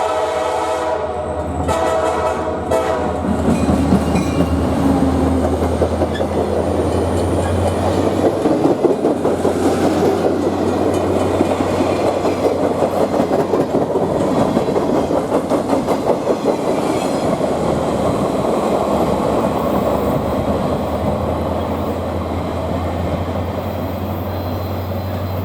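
Diesel freight locomotive's air horn ending one blast under a second in and giving a second short blast about two seconds in, then the train rolling past: the EMD SD40-2's 16-cylinder diesel running with a steady low drone under the clatter of wheels over the rail joints.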